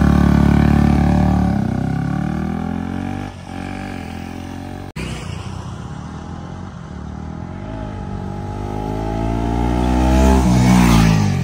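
KTM Duke 250's single-cylinder engine running with the silencer removed: a rev falls away to idle over the first few seconds, it idles, then the revs climb slowly again near the end before cutting off.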